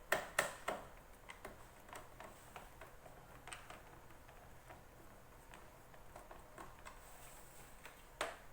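Light clicks and ticks of a screwdriver and small metal screws being worked into a plastic bag impulse sealer's casing, with three sharp clicks right at the start, scattered fainter ticks, and another sharp click near the end.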